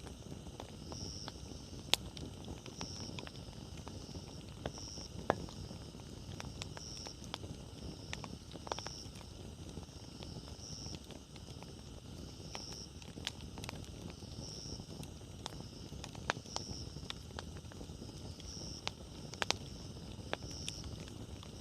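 Wood campfire burning: a steady low rumble with irregular sharp crackles and pops from the burning firewood. A soft high chirp repeats about every two seconds in the background.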